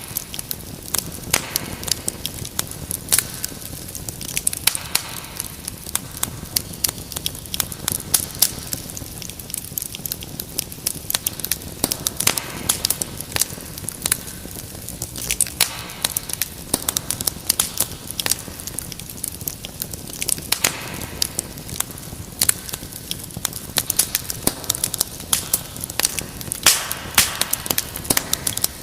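Wood fire crackling steadily, with many sharp irregular pops and snaps over a soft hiss.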